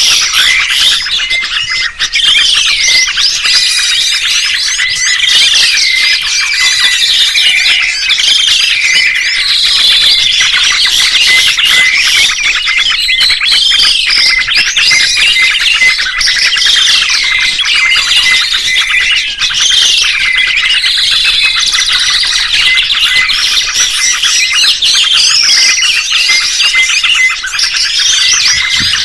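Songbirds chirping in a dense, continuous chorus of high chirps and trills, with one curving call repeated about every two seconds.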